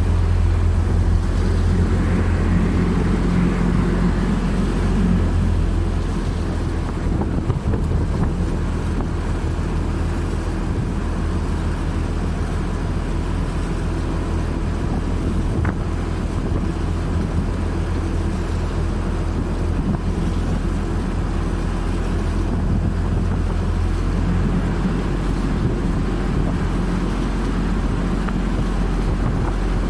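A steady low engine drone with wind buffeting the microphone.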